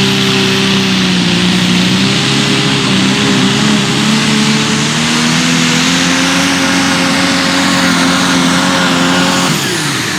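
Turbocharged super stock pulling tractor's engine at full throttle under load, with a high turbo whistle above it. The pitch sags a little, climbs again, then drops away sharply near the end as the throttle comes off.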